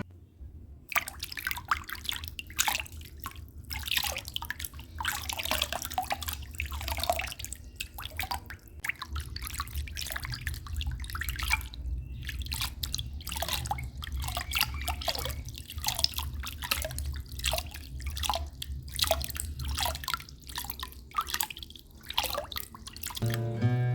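Water dripping and splashing in quick, irregular drops, over a low steady rumble.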